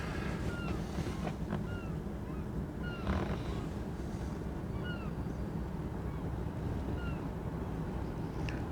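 Birds giving short, thin chirping calls, a dozen or so scattered through, over a steady low rumble.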